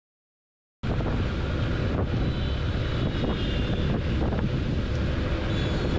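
Wind rushing over the microphone with the steady low drone of a motorcycle under way. It cuts in suddenly about a second in, after dead silence.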